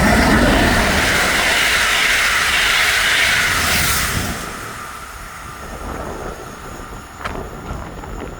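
A train passing through a railway halt: a loud rush of wheel and rail noise for about four seconds, then fading as it moves away, with one sharp click near the end.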